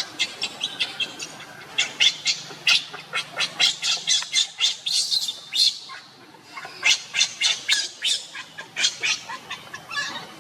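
Monkeys squealing: many short, high-pitched squeaks in quick succession, pausing briefly about six seconds in before starting again.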